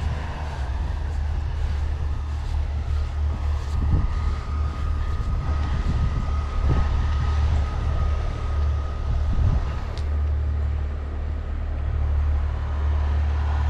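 Off-road vehicle engine running with a steady low rumble. A thin, steady high whine joins it for several seconds through the middle.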